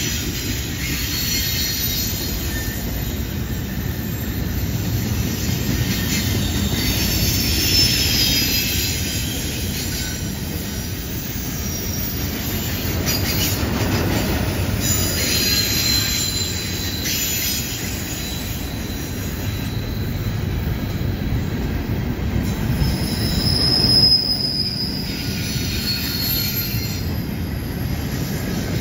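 Double-stack intermodal well cars rolling past on a curve: a steady low rumble of steel wheels on rail. Over it, high-pitched wheel squeal comes and goes, loudest about three-quarters of the way through.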